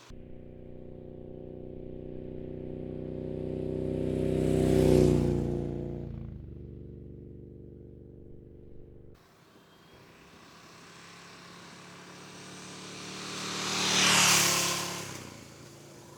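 2019 KTM 1290 Super Duke R V-twin passing by at about 40 mph, twice: each time the engine note swells as the bike approaches, peaks as it goes by, drops in pitch and fades away.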